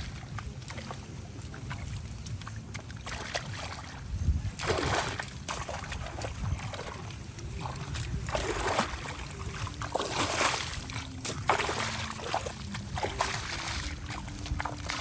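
Water splashing and sloshing in shallow water, several separate splashes over a low steady rumble.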